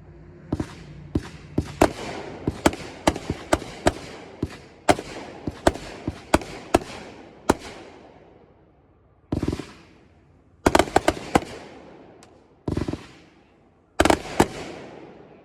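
A consumer firework cake, 'Bodacious', firing its shots. A fast run of sharp bangs, about two a second, lasts roughly the first eight seconds. After a short lull come a few louder clusters of breaks near the end.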